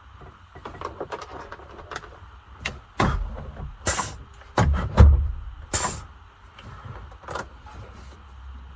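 A run of clunks and clicks, the loudest few bunched about three to six seconds in, over a low steady hum.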